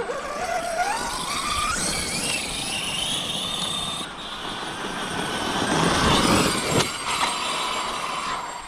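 Losi 5ive TE 3.0 electric 1/5-scale truck on a full-throttle top-speed run: the motor and drivetrain whine climbs steadily in pitch for about four seconds as it accelerates. A rushing noise grows loudest about six seconds in, with a sharp click shortly after.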